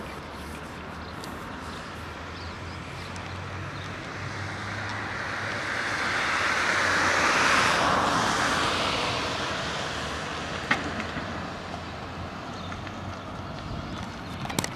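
A vehicle passing by, its noise swelling to a peak about halfway through and then fading, over a low steady hum. Two short clicks come near the end.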